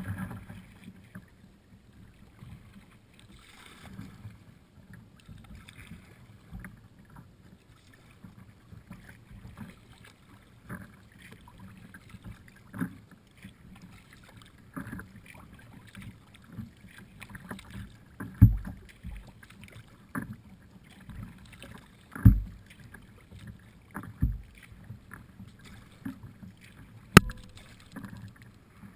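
Kayak on the water: paddle strokes and water moving around the hull over a low rumble, with a few sharp thumps in the second half.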